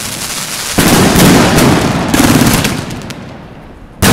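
Aerial fireworks going off: dense, rapid bangs and crackle from shots fired in volleys. Sudden loud surges come about a second in, about two seconds in and again near the end, each fading off.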